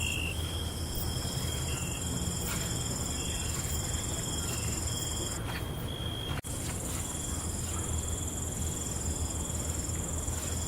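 Night insect chorus: crickets trilling steadily at several high pitches, with short repeated chirps, over a low steady rumble. About six seconds in, the sound briefly cuts out and resumes.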